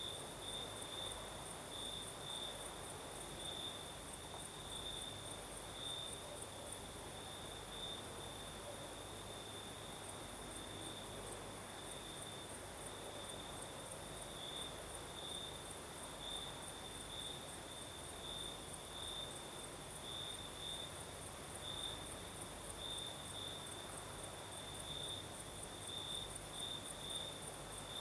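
Crickets singing steadily at night: an unbroken pulsing chirp at one middle-high pitch, with a finer, higher-pitched trill of rapid pulses above it and a faint hiss underneath.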